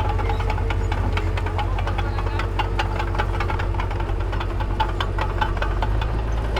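Heavy diesel construction machinery running steadily, with many short sharp clanks over the engine's low rumble.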